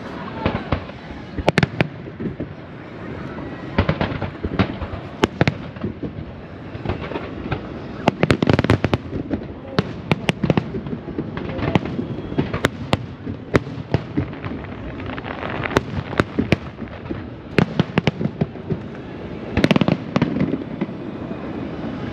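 Fireworks display: a running series of sharp bangs and crackles, with dense volleys about a third of the way in and again near the end.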